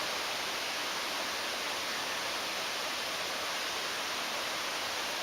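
Steady, even rush of water in a mountain valley stream.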